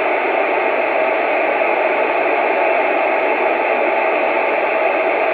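CB radio receiver hissing with steady static between transmissions, nobody keyed up on the channel.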